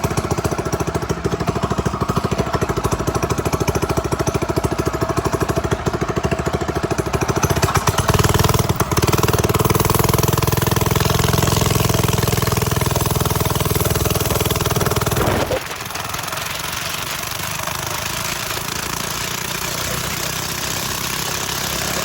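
Minibike engine running with a rapid, even putter after its carburetor's idle and mixture screws have been adjusted. It gets louder and fuller about eight seconds in, then drops suddenly to a quieter, thinner sound about fifteen seconds in.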